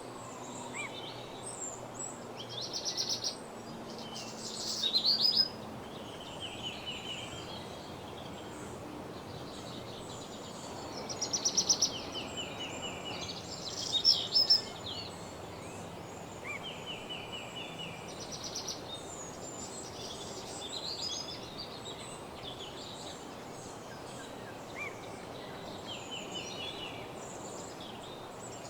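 Woodland songbirds singing: short, high warbled and trilled phrases that repeat throughout, loudest in four bursts (two a few seconds in, two about halfway through), over a steady background hiss.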